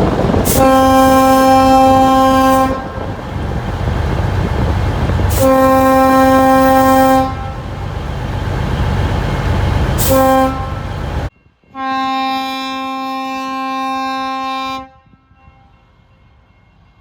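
Diesel locomotive air horn sounding the grade-crossing signal: two long blasts, a short one and a final long one, each a steady chord. A loud diesel engine rumble runs under the first three blasts and cuts out suddenly just before the last.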